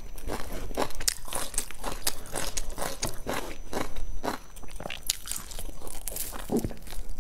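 A person chewing crunchy food with crisp, irregular crunches a couple of times a second, then biting into a piece of crusty baked bread near the end.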